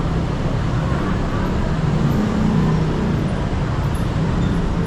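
Road traffic noise with a nearby engine running steadily, its pitch rising slightly about two seconds in.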